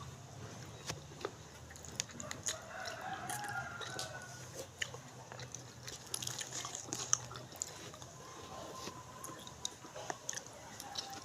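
Close eating sounds, sharp mouth clicks and smacks of chewing and biting, with a rooster crowing in the background about two and a half seconds in.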